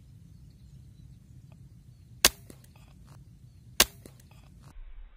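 Two sharp air rifle shots about a second and a half apart, each followed by a few faint clicks.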